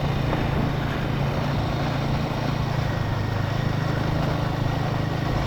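Royal Enfield Himalayan 450's single-cylinder engine running at a steady pace while riding, with a steady rush of wind and road noise over it.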